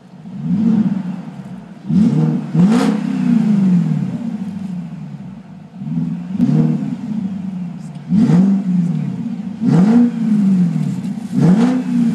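BMW E38 740i's V8 with catalytic converters and mufflers deleted, heard from inside the cabin, revved in a series of sharp throttle blips, each rising and falling back to idle, some blips coming in quick pairs.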